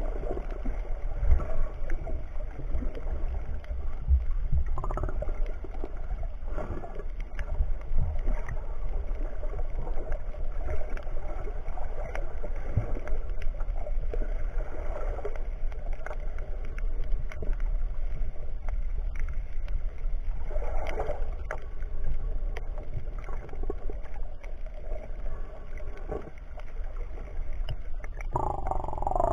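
Steady low rumble with water gurgling over it.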